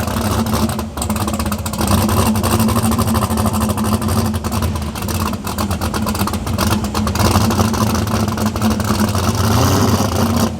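Drag car engine running steadily at low revs, rough and crackling, with a slight rise in pitch near the end.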